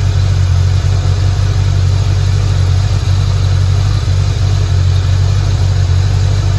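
Fox-body Ford Mustang's V8 idling steadily, running on its first start after two years sitting.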